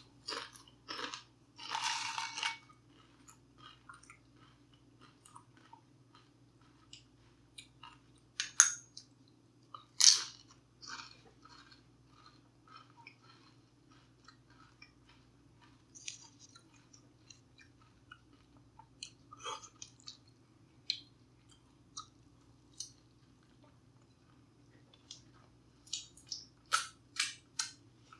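A person eating close to the microphone: scattered soft chewing and mouth sounds, with a few louder sharp bites or crunches near the start, around a third of the way in and near the end, over a faint steady electrical hum.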